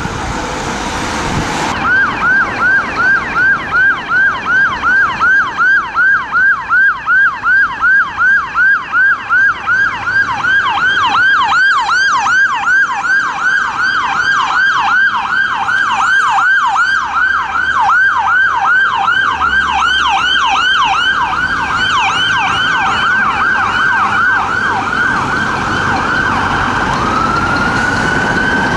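Emergency vehicle siren sounding in a fast yelp, sweeping up and down in pitch about three times a second. Near the end it switches to a slower rising wail.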